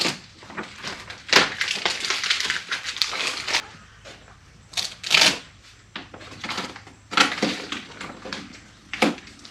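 Clear plastic packing tape being peeled away and the plastic inner lining of a truck door crinkling as it is pulled off, in several rasping bursts with short pauses between.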